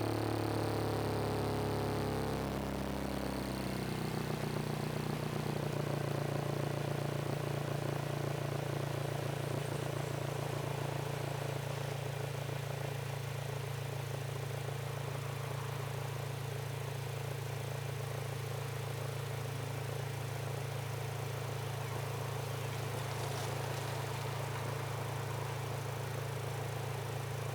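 Acura RSX's 2.0-litre four-cylinder engine through a loud new custom exhaust, its revs falling over the first few seconds and then settling into a steady idle.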